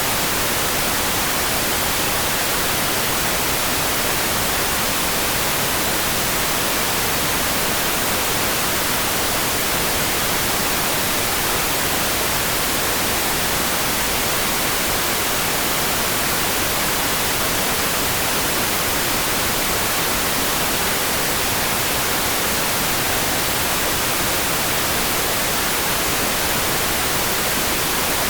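Steady rain as an even, unbroken hiss with no single drops standing out.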